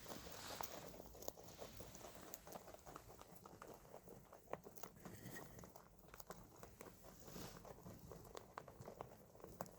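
Rabbits chewing and crunching fresh greens: faint, quick, irregular crunches and nibbling clicks.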